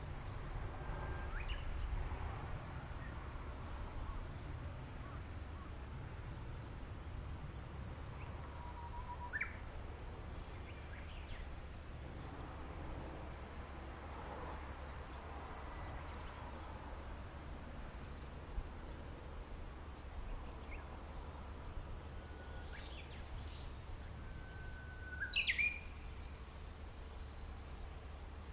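A few short, scattered bird chirps, the loudest a quick chirp near the end, over a faint steady high tone and a low rumble.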